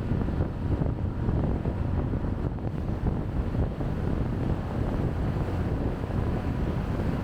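Wind buffeting the camera's microphone during a motorbike ride: a steady low rumble with the bike and traffic noise underneath.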